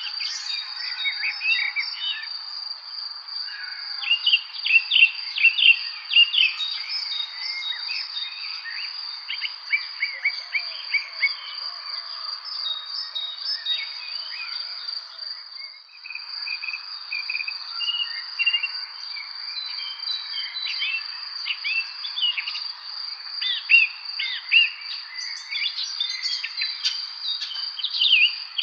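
Several songbirds chirping and singing in quick, overlapping phrases over a steady high-pitched insect trill, like crickets. The chirping comes in busier spells, with a brief lull about halfway through.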